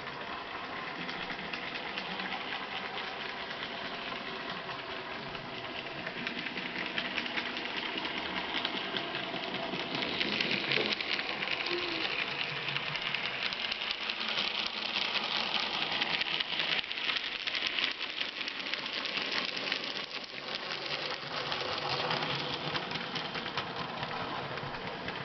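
N gauge model freight train running on the track: a steady whir of the locomotive's small motor and its wheels, with fine rapid clicking, growing somewhat louder around the middle.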